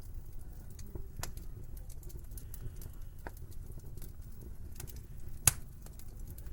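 Wood fire crackling in a fireplace: irregular small pops over a low steady rumble, with one sharp loud pop about five and a half seconds in.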